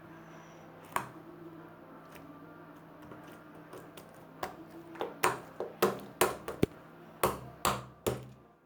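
Homemade fluffy slime being squeezed and poked by hand: a single click about a second in, then a quick run of about a dozen loud pops and crackles from about four and a half seconds in.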